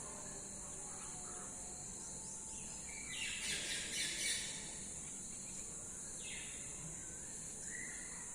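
Birds chirping, with a quick flurry of calls about three to four seconds in and a few short downward-sweeping calls later, over a steady high-pitched insect drone.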